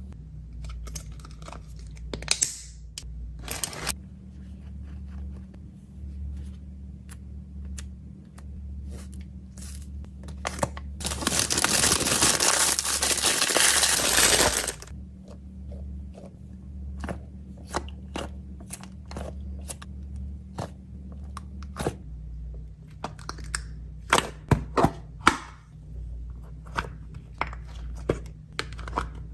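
Small items and packaging being handled: scattered light clicks and taps, then about three and a half seconds of loud tearing and crinkling midway, with a run of sharper clicks near the end, over a steady low hum.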